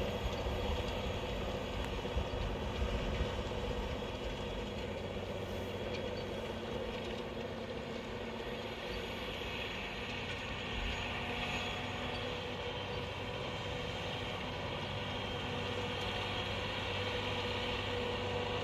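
Farm tractor's diesel engine running steadily under load while ploughing, holding an even pitch.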